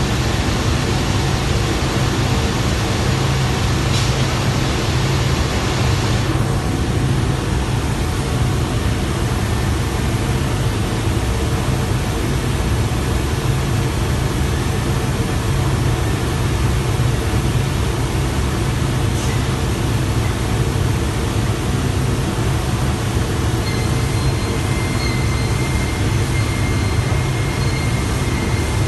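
Bacci FC8CN eight-head CNC contouring machine running steadily, a low machine hum under a broad hiss. The hiss drops back about six seconds in, and a faint high whine comes in near the end.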